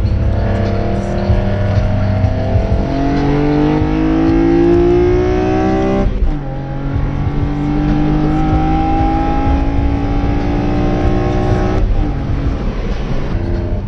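BMW E46 M3's S54 inline-six, breathing through individual throttle bodies and velocity stacks, pulling hard under full acceleration: the revs climb steadily, drop sharply at an upshift about six seconds in, climb again through the next gear and drop at another shift near the end.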